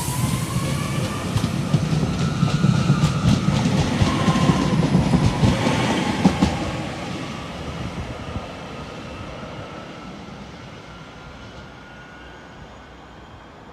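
A train passing: the wheels rumble and click over the rail joints, with a faint high whine over the top. It is loudest for the first six seconds or so, then fades steadily as the train moves away.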